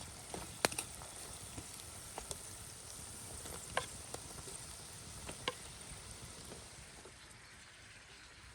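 Food sizzling in a pan over a campfire: a steady hiss with scattered sharp pops and crackles that eases off after about six seconds.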